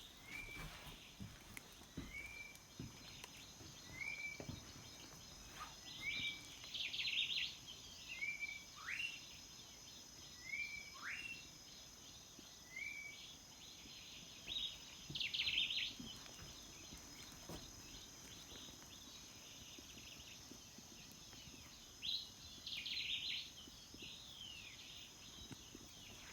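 Birds calling outdoors: a short note repeated about every two seconds, a couple of rising whistles, and three bursts of quicker, busier chirping. Under them runs a steady high-pitched drone, like an insect chorus.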